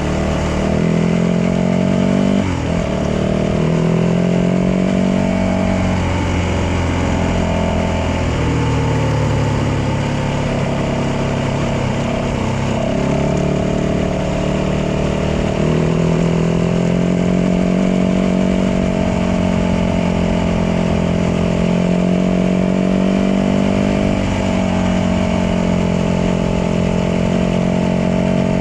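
Yamaha dirt bike engine running while riding, its pitch rising and falling several times with throttle and gear changes.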